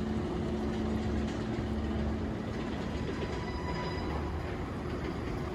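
Roller coaster train running along its steel track: a steady rumble, with thin high squealing tones from about three seconds in.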